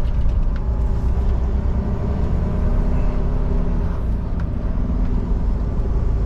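Semi-truck's diesel engine running steadily at low speed, heard from inside the cab as a constant low rumble.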